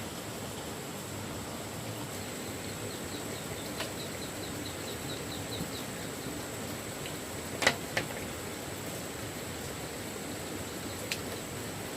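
Steady outdoor hiss with a run of about a dozen quick, high chirps near the start, roughly four a second. Sharp snaps or knocks come a few times, the loudest two in quick succession just past the middle.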